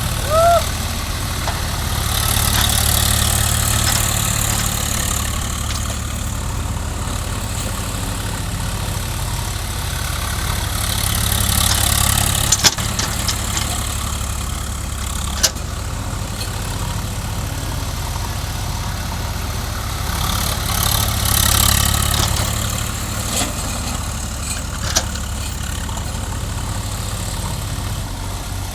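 Diesel engine of heavy earthmoving machinery running steadily, swelling louder a few times, with a couple of sharp metallic clicks.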